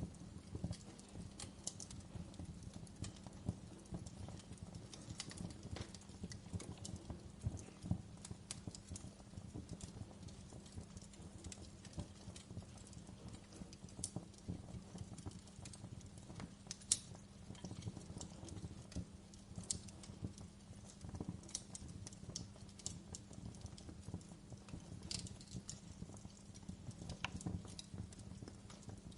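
Wood fire in a fireplace crackling, with irregular sharp pops over a steady low rumble of the flames. One pop a little past halfway is louder than the rest.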